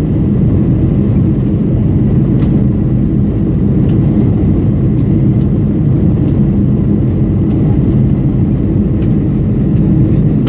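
Steady, loud engine and airflow noise heard from inside the passenger cabin of a Boeing 747-400 jet airliner, an even low drone that holds level throughout.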